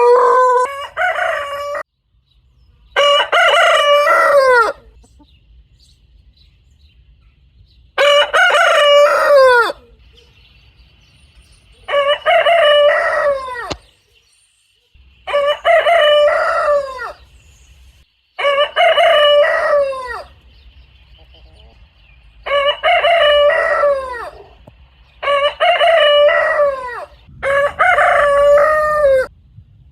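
Rooster crowing over and over: about nine separate cock-a-doodle-doo crows, each lasting a second and a half to two seconds, with short pauses between them.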